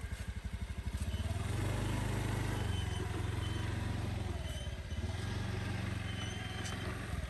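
Motorcycle engine running, pulsing low at first, then settling into a steady hum as it gets going. It eases off briefly around the middle before picking up again.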